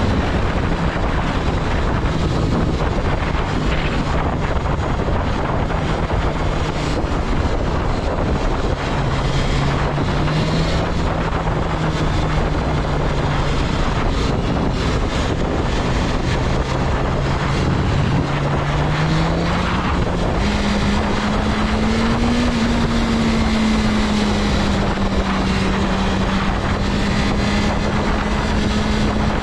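BMW S1000RR's liquid-cooled 999 cc inline-four running at a steady road pace under heavy wind rush. The engine note sags a little a few times, then climbs about two-thirds of the way through and holds higher.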